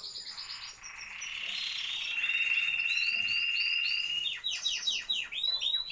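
A small cage songbird singing: a fast, even trill held for about two seconds, then a run of repeated sweeping notes, about three a second.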